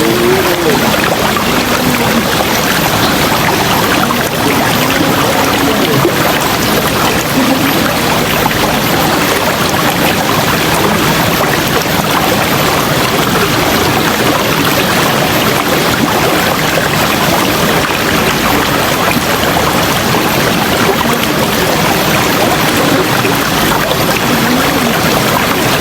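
River water rushing and flowing steadily.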